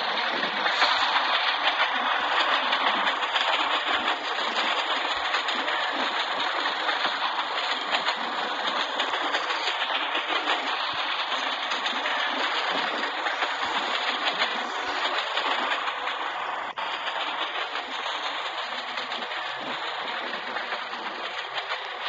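A train running along the rails, a steady rushing clatter of wheels on track that slowly eases off over the last several seconds.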